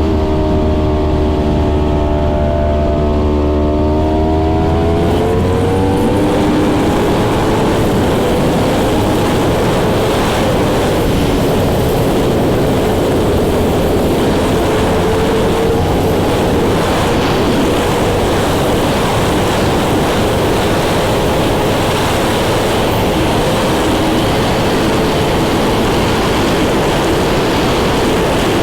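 Yamaha R1 inline-four engine accelerating, its note rising over the first few seconds, then steady wind rush over the microphone at speed with the engine faint beneath it.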